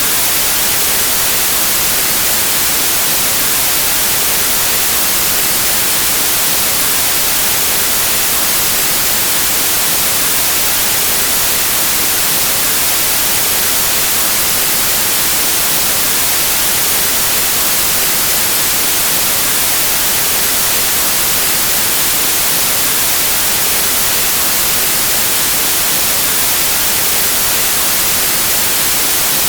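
Steady, unchanging white noise: an even static hiss that is brightest in the high treble.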